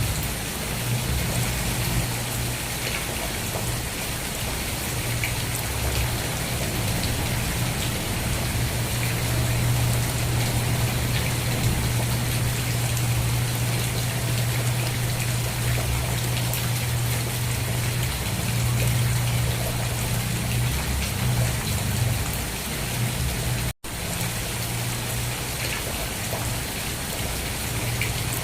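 Steady rain falling, with a dense patter of individual drops over a low, steady hum. The sound drops out for a split second about three-quarters of the way through.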